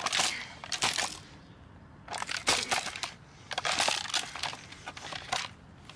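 Plastic housing of a NutriBullet blender base cracking and crunching in three bursts of rapid clicks as it is broken apart with hand tools.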